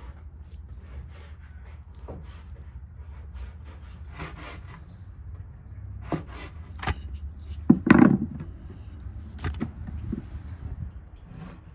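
Irregular rubbing and scraping on a wooden surface, with a few sharp knocks; the loudest knock comes about eight seconds in.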